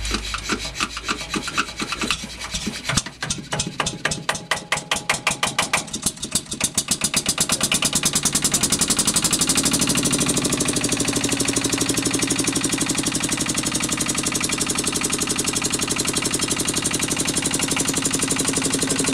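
Coventry Victor WD2 flat-twin diesel stationary engine being swung over by hand on the starting handle with the decompressor: the beats come faster and louder for the first several seconds, then at about nine seconds it fires and settles into running at a steady beat.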